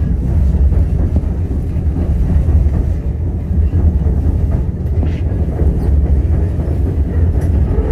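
Steady low rumble of a White Pass & Yukon Route narrow-gauge passenger train running along the track, heard from inside a passenger car.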